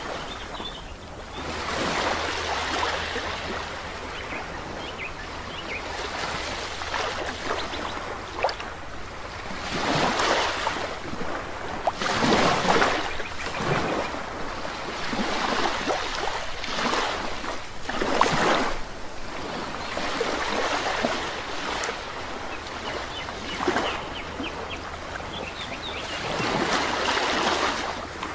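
Sea waves breaking and washing up a beach, the surf swelling every two to four seconds. Faint short bird calls now and then.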